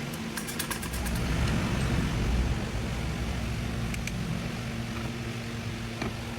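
A steady motor hum that swells for a moment from about one second in and eases after about two and a half seconds, with a few light clicks in the first second and single clicks about four and six seconds in.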